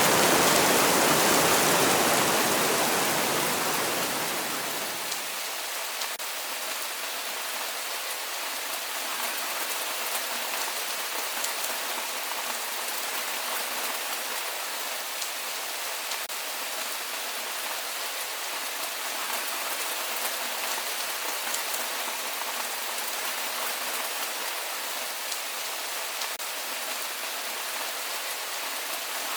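Steady rain falling on a surface, an even hiss with many small drop taps. Over the first five seconds a louder, deeper rush fades out, leaving the lighter rain alone.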